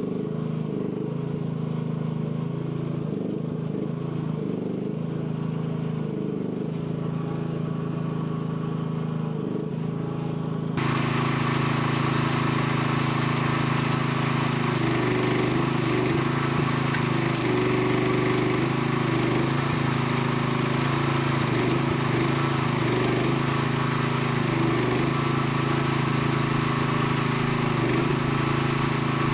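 AGT L12 mini excavator's small engine running steadily under hydraulic load, its note dipping and recovering again and again as the hydraulics work. About eleven seconds in the sound turns brighter and a little louder.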